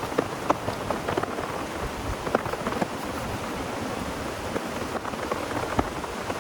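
Heavy rain falling, a steady hiss with many irregular sharp taps of drops hitting a surface.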